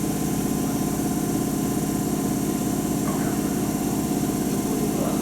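Hankyu 8000-series and 7000-series electric train set humming steadily, several held tones with no rise or fall in pitch.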